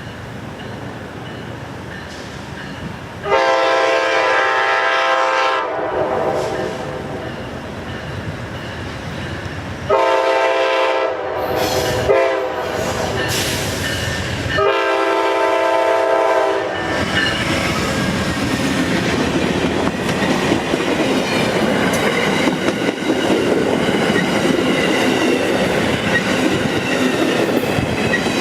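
A locomotive horn sounding several long blasts as a train approaches, a chord of several notes. It is followed by the train passing close by: a steady rumble with wheels clattering over the rail joints.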